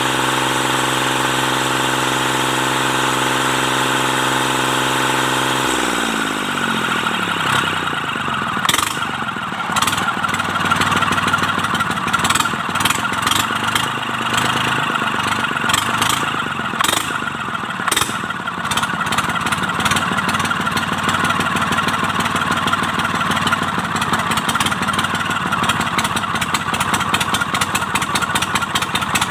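Mitsubishi K3E three-cylinder diesel engine of an MT18 tractor, fitted with new pistons and rings, running steadily at raised speed, then slowing down to idle about six seconds in. It then idles with a rough, clattering beat and irregular ticks.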